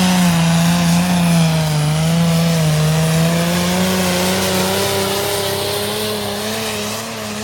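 A modified tractor-pulling tractor's engine at high revs under heavy load as it drags the sled down the track. The pitch sags a little partway through and then climbs back, and the sound fades gradually near the end.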